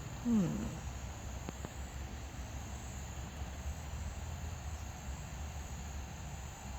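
Steady high-pitched insect chirring with a low rumble of wind on the microphone. A short, low, falling pitched sound comes just after the start.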